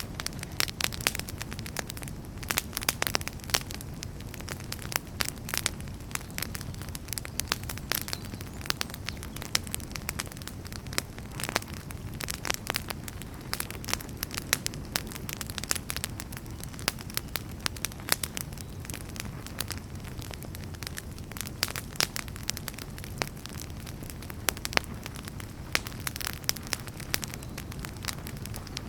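Wood fire burning in a fireplace: a steady low rumble of flames with frequent sharp crackles and pops of varying loudness.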